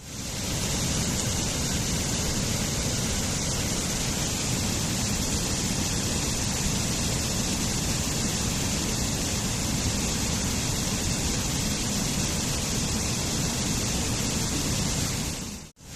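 Waterfall, a steady rush of falling water that fades up at the start and drops out for a moment near the end before coming straight back.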